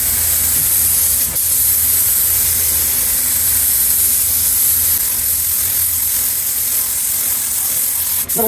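Paint spraying onto the truck: a steady hiss with a brief break about a second in, stopping near the end.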